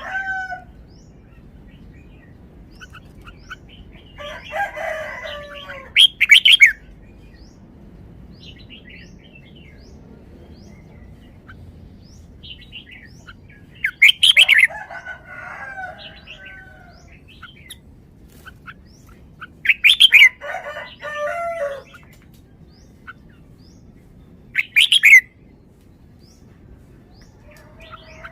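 Red-whiskered bulbul singing loud, short, whistled phrases in separate bouts every few seconds. A rooster also crows in the background.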